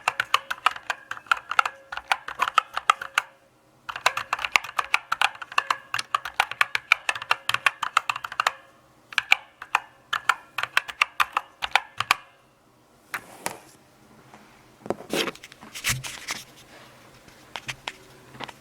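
Mechanical keyboard typing: rapid clacking keystrokes with a brief pause about a third of the way in. The typing stops about two-thirds through, and a few scattered knocks and rustles follow.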